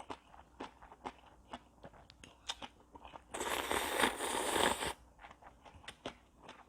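Close-miked eating of oyster ramen: chewing with many small wet clicks and smacks. About three seconds in comes a loud slurp of noodles lasting about a second and a half.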